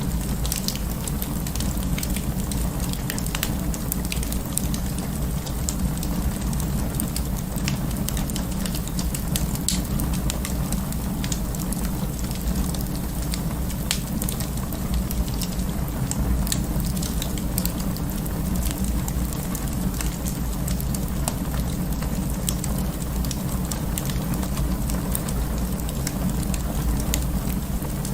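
Wood fire burning in an open fireplace: a steady low rumble of flames with frequent small crackles and pops of burning wood scattered throughout.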